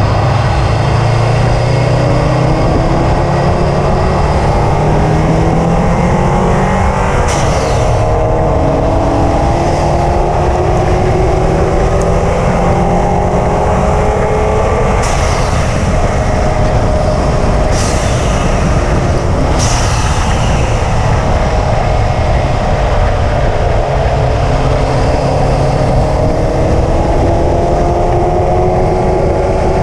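A 2005 Subaru WRX's turbocharged flat-four engine pulling at moderate speed, its pitch climbing slowly and steadily, dropping back a few times and climbing again, with road and wind noise under it. A few brief sharp noises come in between.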